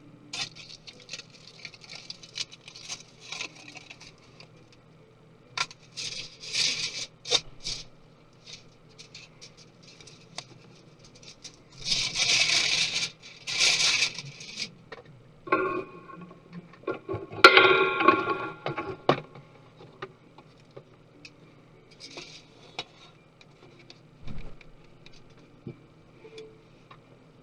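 Small tools and parts being handled while a MacBook Pro laptop is taken apart: scattered scrapes, taps and clicks, a longer scraping stretch about twelve seconds in, and a louder clatter with a brief metallic ring about seventeen seconds in.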